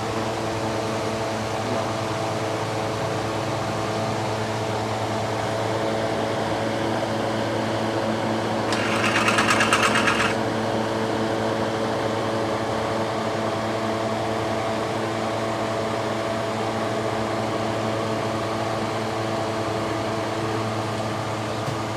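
Steady mechanical hum with several fixed tones. About nine seconds in comes a loud hiss with a rapid fine pulsing, lasting about a second and a half.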